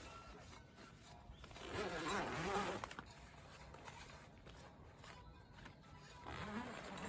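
Faint rustling of tent fabric and a zipper as a tent's black mesh panel is swapped for a clear TPU panel, louder for about a second around two seconds in.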